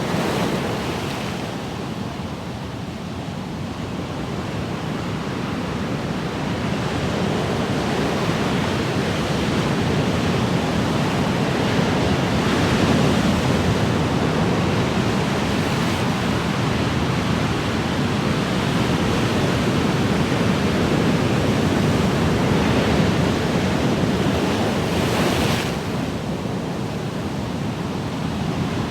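Ocean surf: a continuous wash of waves that slowly swells and eases. There is a brief brighter hiss near the end.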